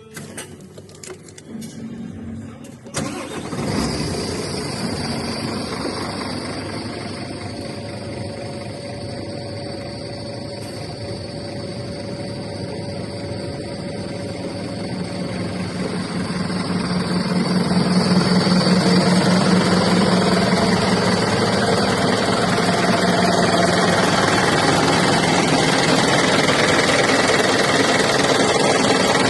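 Scania truck's diesel engine starting about three seconds in, then running steadily at idle. It grows louder about halfway through and holds at that level.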